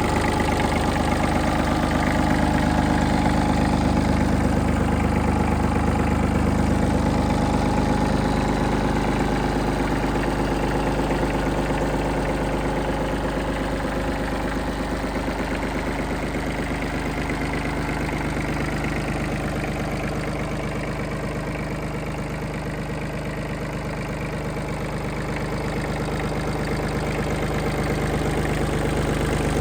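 Iseki TM15 compact tractor's three-cylinder diesel engine running steadily, its note shifting slightly about eight seconds in.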